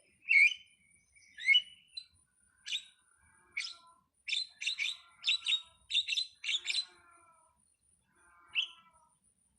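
Starling (jalak) calling: a few sharp upward-sweeping chirps, then a fast run of clicking, chattering notes in the middle, and a single chirp near the end.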